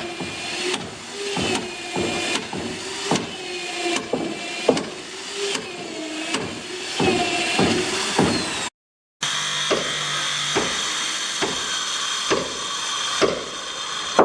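Steady series of hammer blows on wood, about one every 0.7 s, over the whine of a running motor or power tool. The sound cuts out for half a second about nine seconds in, then the blows go on over a steadier machine tone.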